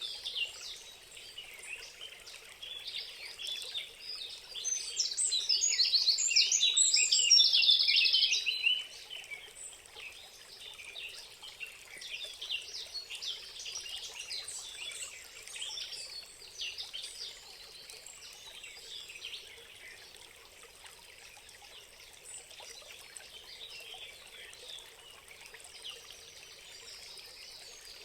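Birds chirping and singing over faintly trickling water, with a louder burst of song from about five to nine seconds in.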